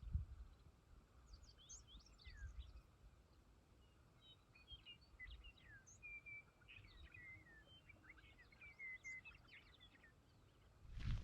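Faint chorus of songbirds singing on an open hillside: quick chirps, short down-slurred whistles and a brief trill, overlapping. A bird-ID app picked out the birds heard here as western meadowlark, lazuli bunting, chipping sparrow and white-crowned sparrow. A brief low thump comes right at the start.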